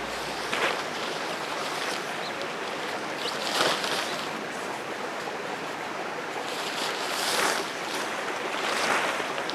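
Steady rain falling, an even hiss with a few brief louder swells.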